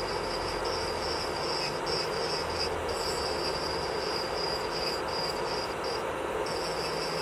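Electric nail drill (e-file) running on the nail, a steady high-pitched whine over a grinding hiss, the whine dropping out briefly several times.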